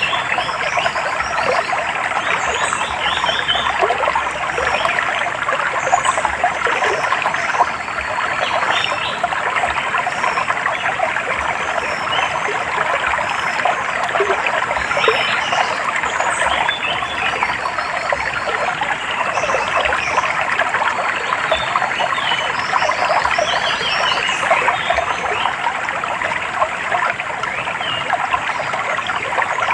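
A stream trickling and splashing steadily, with small birds chirping in short high calls over it throughout.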